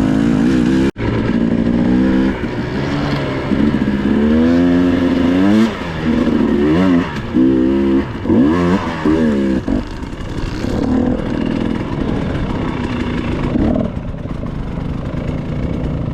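Dirt bike engine running, revved up and down repeatedly through the middle, then settling to a steadier, quieter run near the end.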